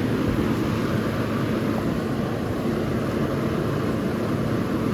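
Vintage Carry Cool 5,000 BTU window air conditioner running steadily in cooling mode: the compressor's low hum under the even rush of air from its fans, the outdoor fan included.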